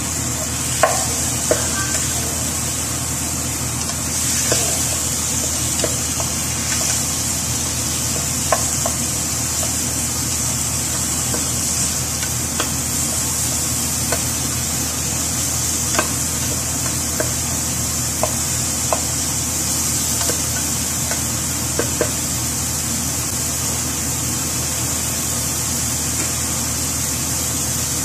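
Squid, onions and tomatoes sizzling in a stainless steel pot while a wooden spatula stirs them, knocking against the pot now and then. The knocking stops a little after twenty seconds, leaving the steady sizzle.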